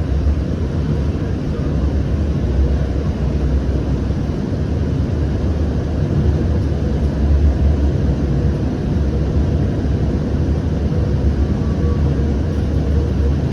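Siemens S700 light rail car running between stops, heard from inside the car: a steady low rumble of wheels on rail and the car in motion, with a faint steady hum.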